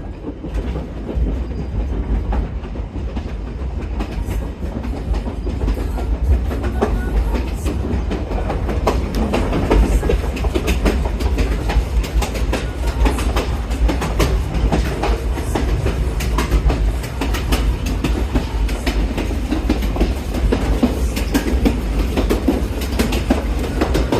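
Passenger train running along the line: a steady low rumble of the carriage, with frequent clicks and clacks of the wheels over the rail joints.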